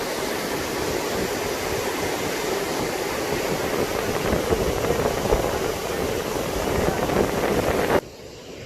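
Steady rush of flowing river water, cutting off abruptly near the end.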